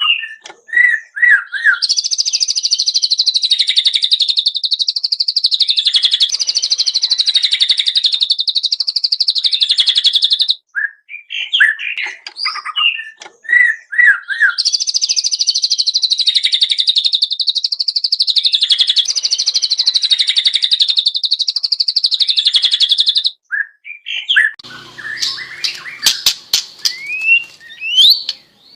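White-rumped shama singing in full voice: short separate whistled notes, then two long rapid-fire trills of about eight seconds each (the 'tembakan' bursts), with more short whistles between them. A few clicks and rustles follow near the end.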